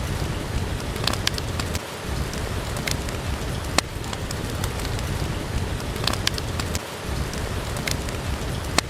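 Steady rain falling, with a crackling wood fire giving a few sharp pops scattered through it.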